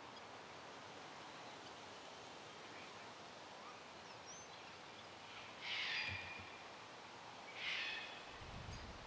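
Quiet outdoor bush ambience with two short, harsh bird calls about two seconds apart. Wind starts buffeting the microphone near the end.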